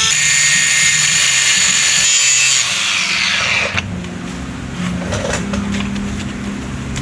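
A handheld power tool runs at speed with a steady high whine, then is let off about two and a half seconds in and spins down, its pitch falling for about a second. A low steady hum with a few light clicks follows.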